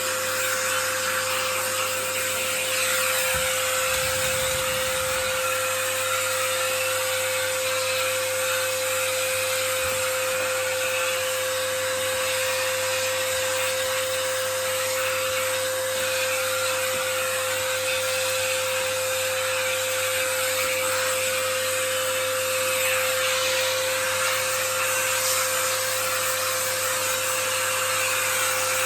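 Vacuum cleaner running steadily with a constant whine, with a brief low rumble about four seconds in.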